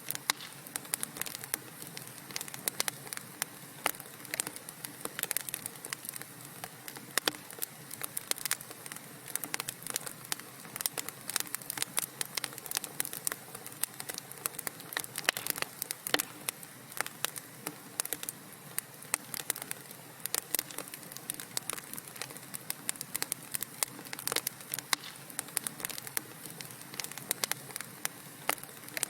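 Wood fire in a fireplace crackling: a soft steady hiss with dense, irregular sharp pops and snaps throughout.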